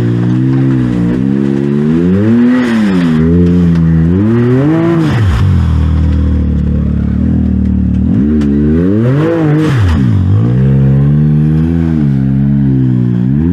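Side-by-side UTV engine running close by, revved several times: its pitch climbs and falls at about two, five and nine seconds in, with steadier lower running between.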